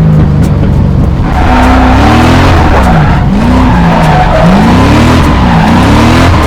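A drift car's engine revving up and down over and over, about once a second, while its tyres squeal and hiss in a slide from about a second in.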